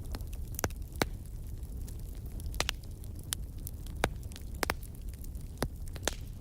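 Campfire crackling: irregular sharp pops and snaps, about a dozen, over a steady low rumble of the burning fire.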